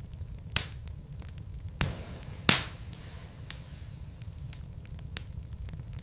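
Wood logs burning in a fireplace, crackling with scattered sharp pops over a low steady rumble. Three louder pops come in the first half, the loudest about two and a half seconds in.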